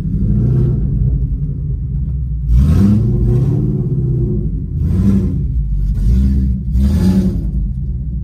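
Ford Coyote 5.0 V8 in a Mustang, heard from inside the cabin while driving, accelerating with its note rising three times about two seconds apart.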